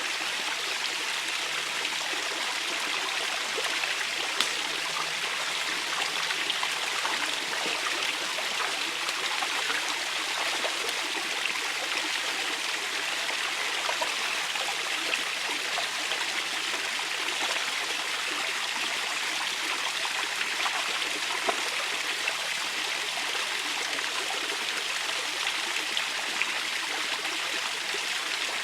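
Small, low river running over stones: a steady babbling trickle with faint splashes and ticks of water.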